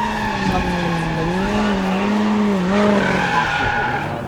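Rally car engine at high revs, its pitch rising and falling repeatedly as the throttle is worked.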